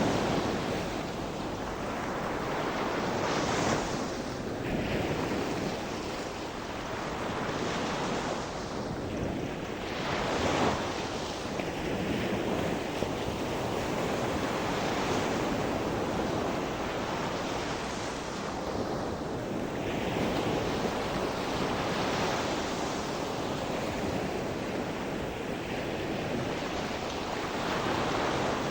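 Sea waves breaking and washing on the shore, a continuous surf with swells rising and falling every few seconds.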